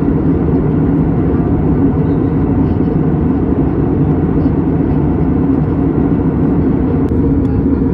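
Airplane engine and airflow noise, a steady low rush with a faint even hum in it.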